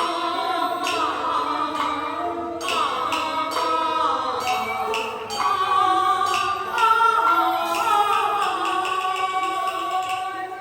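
Beiguan opera music: a sung line with gliding pitch over melodic accompaniment, punctuated by sharp percussion strokes.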